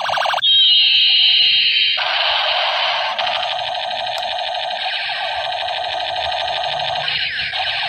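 Plastic toy sniper gun's electronic sound chip playing its firing effect: a high whistling tone that breaks into a warble, then about two seconds in a long run of rapid electronic beeps and chirps.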